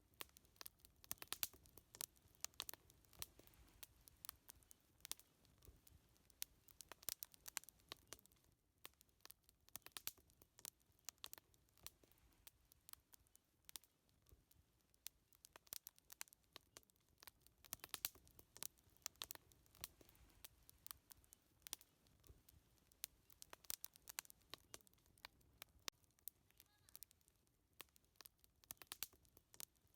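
Wood fire crackling quietly, with irregular sharp pops and snaps of burning firewood over a faint low hiss.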